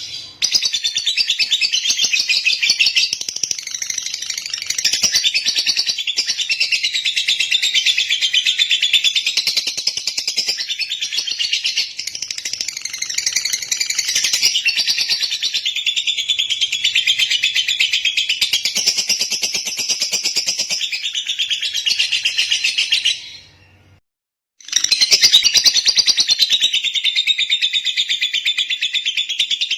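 Lovebird singing a long, unbroken run of rapid, high chirps and trills, breaking off for about a second roughly three-quarters of the way through, then going on.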